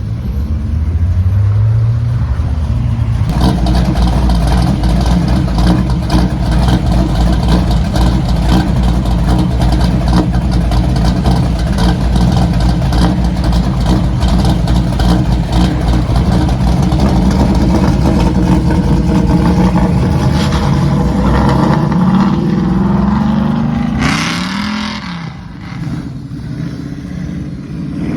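Loud car engines passing close by: one starts up loud and rough about three seconds in and runs steadily. Near the end the engine pitch rises as cars accelerate away, then the sound fades somewhat.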